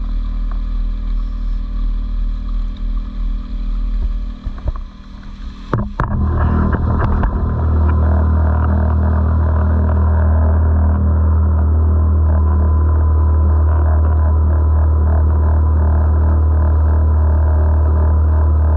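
Small outboard motor running with a steady drone. About six seconds in there is a sharp knock, and after it the drone is louder.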